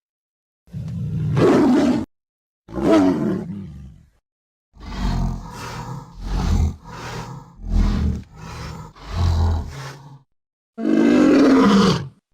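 Bear-like animal roars used as a creature sound effect for a giant prehistoric bear: two roars about a second and a half each, then a run of six short, deep calls, then another roar with falling pitch near the end, each one cut off into dead silence.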